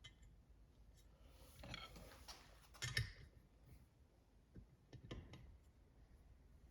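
Faint, scattered clinks and taps of small metal parts being handled, a few light knocks about two, three and five seconds in, as the bushing and its driver tool are set in place.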